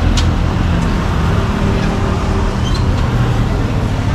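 A motor vehicle engine running steadily, giving a deep, even hum.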